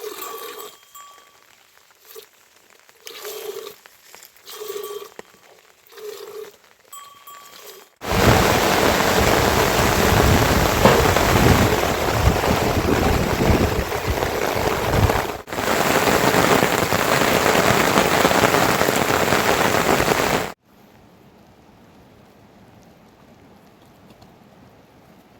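Heavy rain pouring down, a loud steady hiss that starts abruptly about eight seconds in and cuts off sharply about twenty seconds in, leaving a quieter, even rain hiss. Before the downpour there are only faint short sounds repeating about every second and a half.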